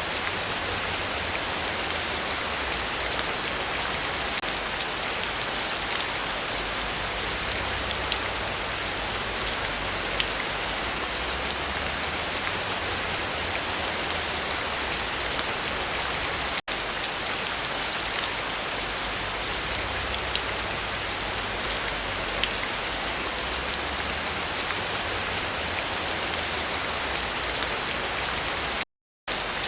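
Heavy rain falling steadily, a dense even hiss of many drops. The sound cuts out for a split second about halfway through and again near the end.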